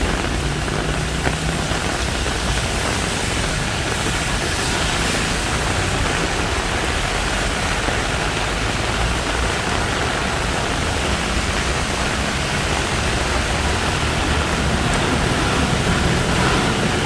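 Heavy tropical rain pouring down in a dense, even hiss, with a low rumble underneath.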